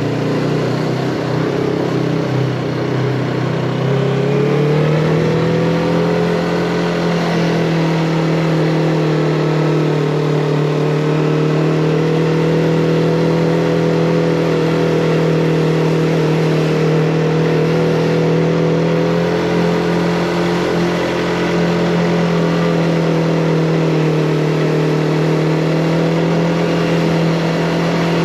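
Yamaha MT-25's 249 cc parallel-twin engine under way. The revs rise about four seconds in, then hold steady at cruising speed over a constant rush of wind and road noise.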